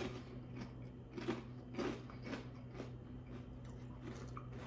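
A person chewing food close to the microphone, with a handful of soft crunches in the first three seconds, over a steady low hum.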